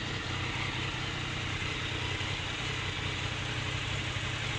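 Motorcycle engine running steadily, a low even hum with a hiss of air and road noise over it.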